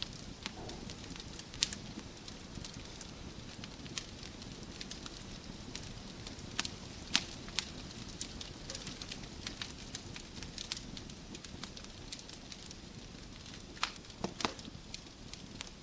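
Wood fire burning in a fireplace: a steady low hiss and rumble with irregular sharp crackles and pops from the logs, a few louder snaps about a second and a half in, around seven seconds, and a quick cluster near the end.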